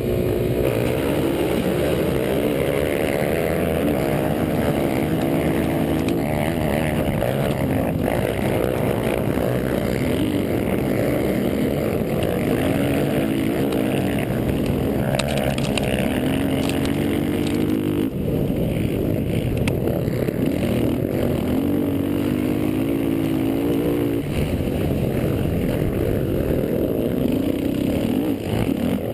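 Racing quad (ATV) engines revving, the pitch climbing and dropping again and again, with more than one engine often heard at once.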